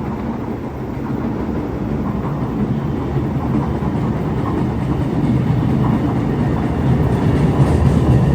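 MBTA train running on the rails, growing steadily louder as it approaches.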